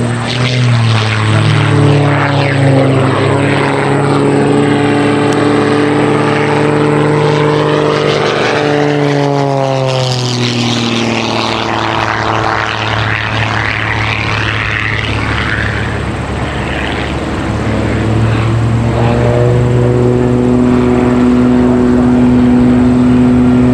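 Two Christen Eagle aerobatic biplanes, their modified piston engines well above 300 horsepower, droning as they fly their routine. The engine note drops in pitch as the planes pass, about a second in and again around ten seconds in, then holds steady near the end.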